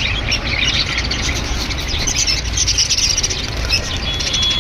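Budgerigars chattering with many quick overlapping chirps and warbles, and one brief steady whistle near the end, over a steady low rumble.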